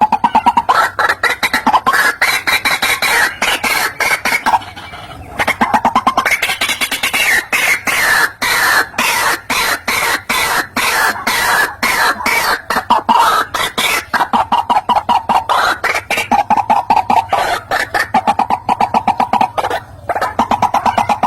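White-breasted waterhen calling: a loud, rapid run of repeated notes, several a second, with a brief lull about five seconds in.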